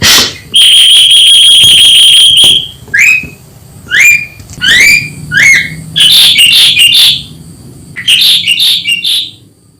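Ashy drongo calling loudly. A sharp note opens, then a long buzzy note is held for about two seconds, followed by a run of short upward-sweeping whistles and two bursts of harsh chattering notes. This is the wild call used as a lure to attract drongos.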